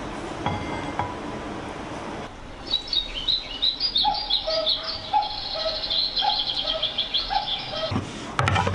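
A few faint clinks of metal chopsticks on a plate. From about two seconds in comes a run of bird chirps and trills with held whistled notes, which stops abruptly about a second before the end.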